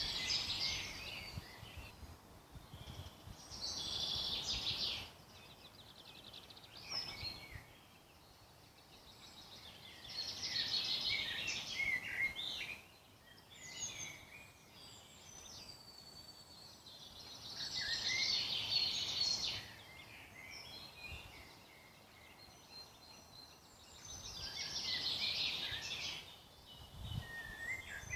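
Woodland birds singing in spring: a loud, busy song phrase of a couple of seconds returns about every six to seven seconds, with quieter chirps and calls from other birds in between.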